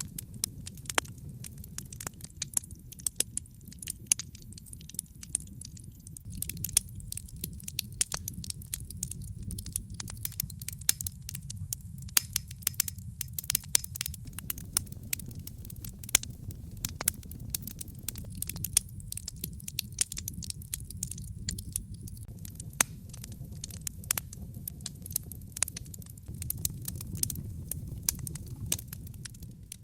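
Wood fire crackling in a fireplace: many sharp pops and snaps at irregular intervals over a steady low rumble of the burning fire.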